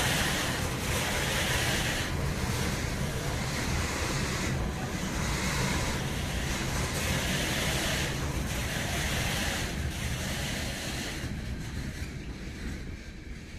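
Freight train of loaded container flat wagons rolling past, a steady rumble and rail noise that swells and eases every couple of seconds as the wagons go by. It fades away near the end as the last wagon passes.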